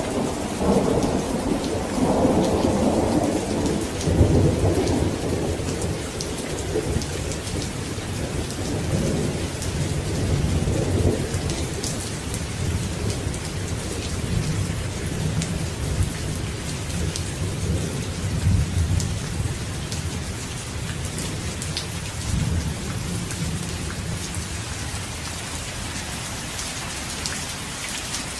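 Steady heavy rain with a long roll of thunder rumbling in the first half and slowly dying away toward the end, leaving the rain hissing.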